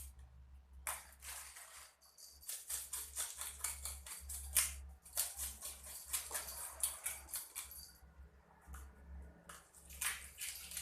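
Rapid scraping strokes of a knife on fish being cleaned, in quick runs that stop about two seconds before the end and start again briefly, over a steady low hum.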